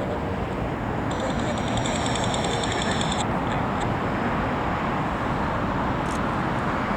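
Boeing 737 jet engines on approach, a steady dense rumble that slowly grows louder, mixed with road traffic.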